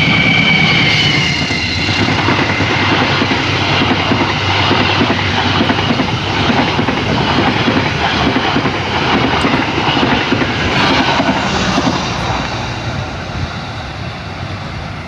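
Train rolling past close by, its wheels clattering steadily on the rails, growing quieter over the last few seconds. A high two-note tone sliding slightly down dies away in the first couple of seconds.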